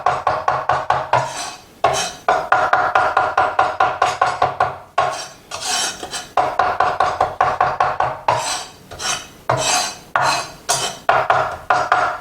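Kitchen knife chopping rapidly on a cutting board, several strokes a second in runs of a few seconds with short breaks between them.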